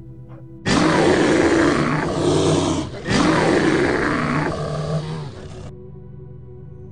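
A large wild animal roaring twice, back to back, starting about a second in; each roar is loud and rough and lasts over two seconds, over steady background music.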